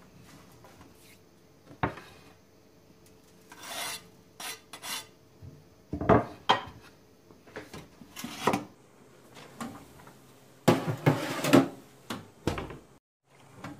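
Kitchen handling sounds: irregular scraping and rubbing with scattered knocks of utensils and dishes, the loudest clatter about two-thirds of the way in.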